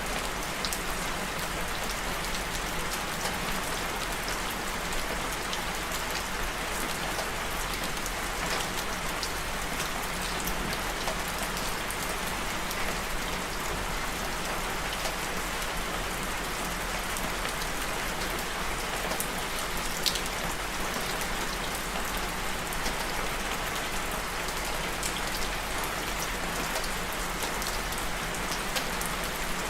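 Steady rain falling on a surface, an even patter of drops with scattered sharper drip ticks.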